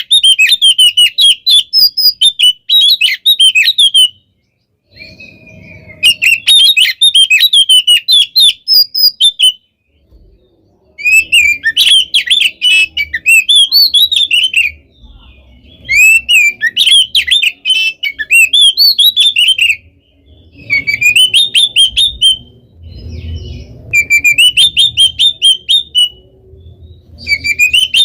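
Oriental magpie-robin (kacer) singing hard in loud bursts of rapid, chattering, whistled notes a few seconds long, broken by pauses of about a second.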